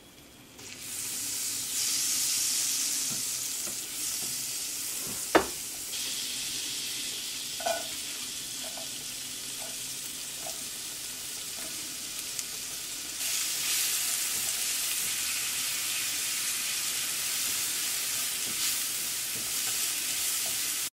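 Butter sizzling in a hot nonstick frying pan, then chopped onion, green chili and mushrooms frying in it with a steady sizzle while being stirred with a silicone spatula. There is a sharp knock about five seconds in, and the sizzle grows louder about two-thirds of the way through.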